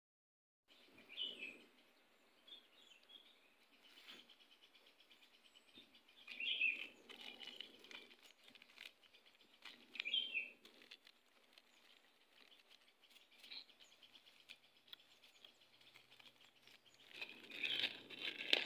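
Faint outdoor ambience: a steady high hiss with birds chirping now and then and scattered small clicks.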